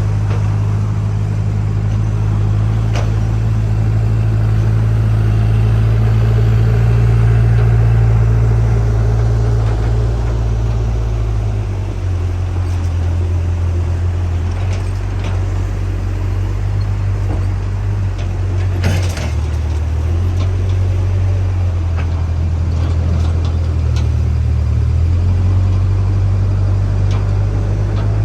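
JCB backhoe loader's diesel engine running steadily, its note dropping about twelve seconds in and shifting again as the load changes, with a single sharp clack near the end.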